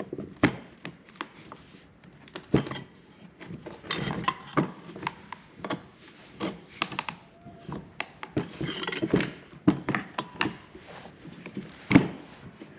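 Irregular knocks, clinks and scraping as the metal parts of a small table-saw motor are handled and worked apart with tools, with one sharp knock, the loudest, near the end.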